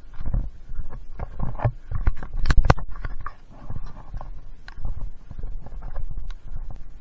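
Irregular footsteps and rustling through wet brush on a trail, a run of thumps and scrapes with a low rumble of handling on the microphone; the loudest knocks come about two and a half seconds in.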